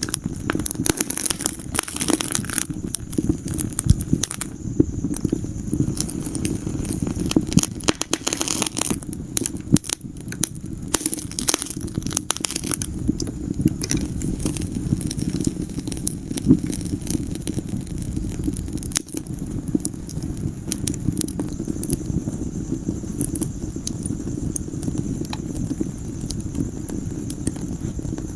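Wood fire burning in a fireplace: a steady low rumble of flames with frequent sharp pops and crackles, busiest in the first dozen seconds and sparser after.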